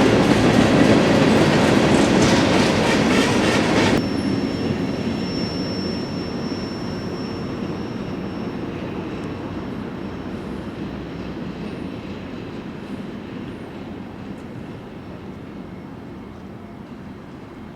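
A train rolling past with wheels clattering over the rail joints, loud for about four seconds. The level then drops suddenly as the end of the train passes, and the rumble fades steadily as it moves away. A thin high squeal of the wheels runs for a few seconds after the drop.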